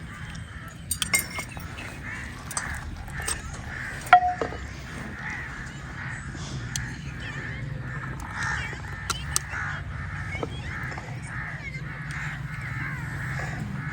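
Crows cawing over and over, with a few sharp clicks, one louder knock about four seconds in.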